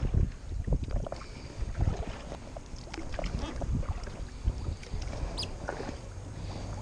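Paddling a Lifetime Teton Angler kayak: irregular paddle splashes in the water and light knocks against the hull, over low wind rumble on the microphone.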